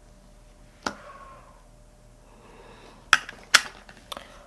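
Makeup containers and tools being handled: a few sharp clicks and taps, the loudest two close together about three seconds in.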